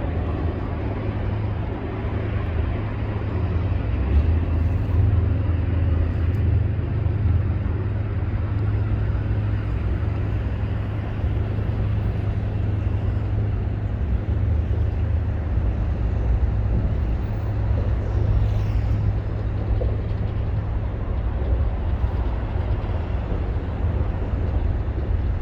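Steady low rumble of outdoor city background noise, with no single sound standing out.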